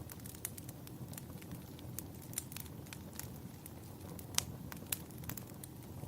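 Wood fire burning in a fireplace: a steady low rumble with irregular sharp crackles and pops, the loudest pop a little past four seconds in.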